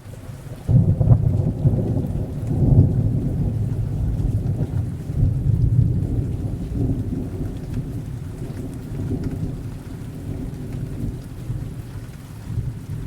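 Thunder rolling over steady rain: a long rumble that swells about a second in, peaks twice in the first few seconds and slowly fades.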